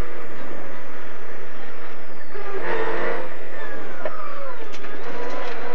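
A VW Polo 1.4 16V rally car's engine, heard from inside the cockpit, working hard on a stage. Its revs fall for about two seconds, jump up sharply about two and a half seconds in, drop away again, then climb near the end as the car shifts and accelerates between corners.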